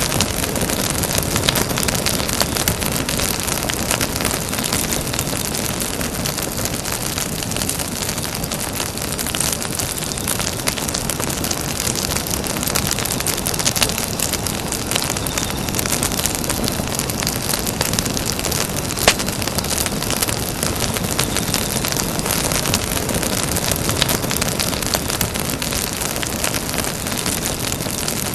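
Wood campfire burning: a steady hiss filled with constant small crackles and snaps, and one louder pop about two-thirds of the way through.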